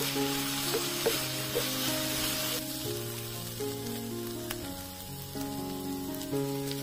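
Chicken, carrot and onion filling sizzling in a frying pan as it is stirred with a wooden spatula, with a few light scrapes, over background music. The sizzle drops away about two and a half seconds in, leaving mostly the music.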